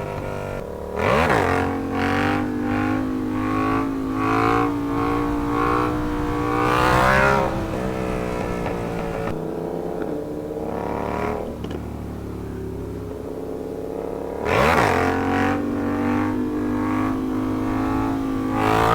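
Sportbike engines accelerating and easing off. The pitch climbs and drops again and again, with a sharp quick rev about a second in and another near the end.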